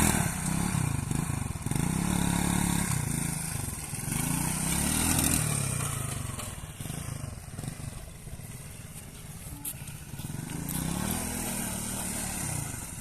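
Motorcycle engine running, its pitch rising and falling several times as it revs up and eases off; it grows fainter in the middle and picks up again near the end.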